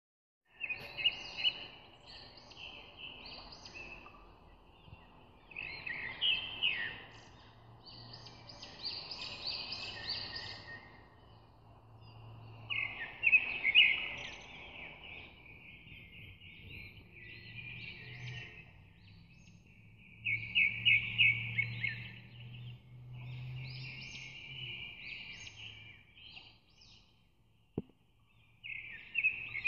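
Small birds chirping and trilling in repeated bursts every few seconds over a faint low hum, with a single sharp click near the end.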